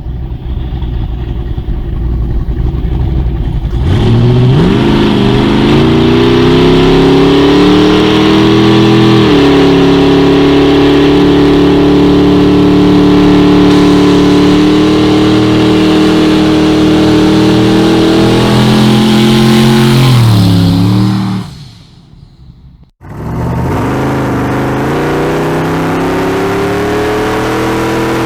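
Car engine revving up about four seconds in and held at high revs for over ten seconds during a 'dig' done at full throttle, then dropping away. After a short break it runs at high revs again.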